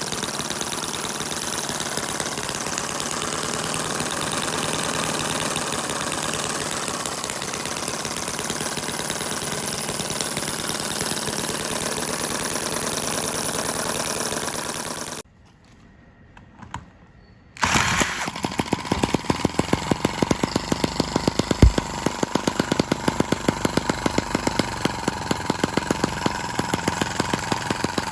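Small model engine running steadily; after a short break about halfway, another model engine runs with a fast, even firing beat.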